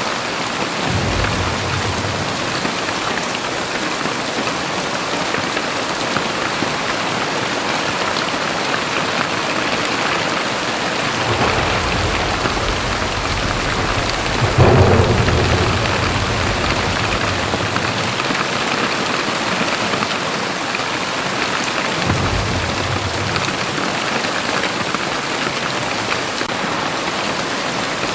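Very heavy rain pouring steadily. Low rumbles come and go, the loudest swelling about halfway through.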